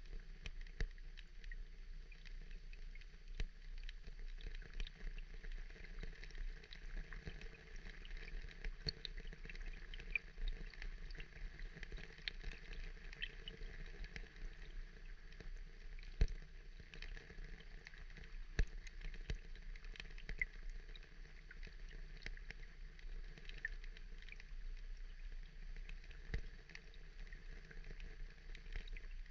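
Steady rain pattering, a dense run of irregular drop ticks with a few louder drops standing out.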